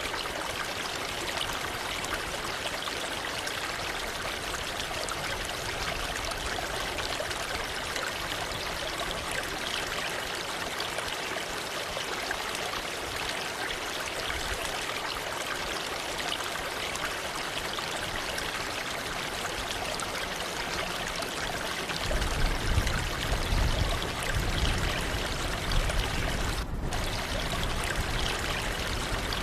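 Waterfall water pouring and splashing in a steady rush. About two-thirds of the way through, a deeper low rumble joins and it grows louder.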